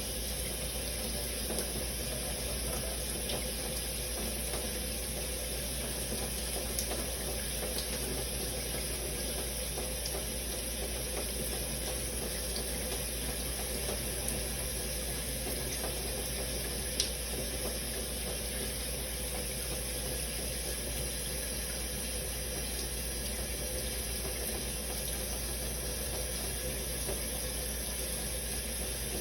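Shower running steadily, water spraying and splashing in an even hiss, with a few brief ticks from drops or splashes, the sharpest about seventeen seconds in.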